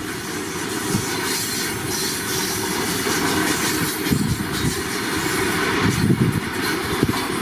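Railway train rolling past, a steady rushing noise with occasional knocks of wheels over rail joints.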